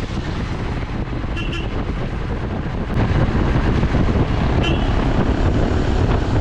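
Wind rushing over the microphone of a moving Royal Enfield Himalayan motorcycle, with the bike's single-cylinder engine rumbling under it; the noise grows louder about three seconds in.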